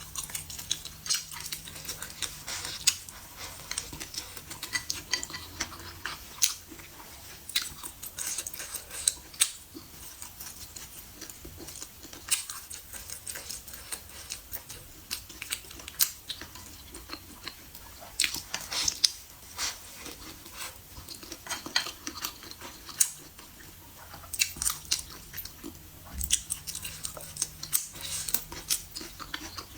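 A person chewing and biting food close to the microphone, an irregular run of clicks and crunches that keeps going the whole time.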